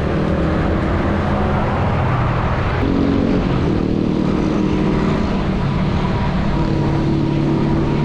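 Steady motor traffic on a city street: the engines of nearby vehicles running over a constant road noise, with the engine tones shifting about three seconds in and again near the end.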